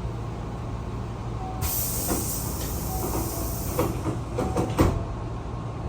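Hankyu commuter train's sliding doors closing over the train's steady low rumble: a hiss starts about a second and a half in, with several knocks as the doors shut, the loudest near the end of the hiss.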